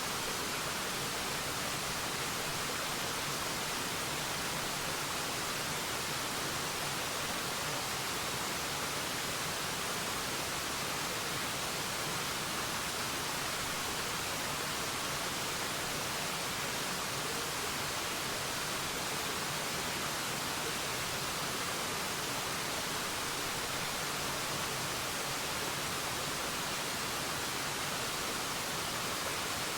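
Forest waterfall: a steady, unbroken rush of falling water, an even hiss with most of its weight in the high end.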